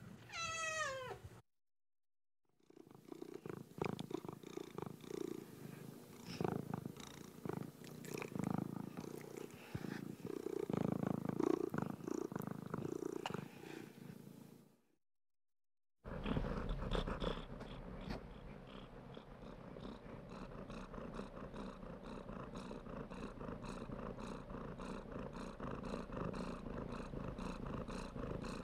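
Domestic cat sounds: a short meow falling in pitch, then after a brief silence about twelve seconds of uneven purring. After another short silence comes a steady, rhythmic purr.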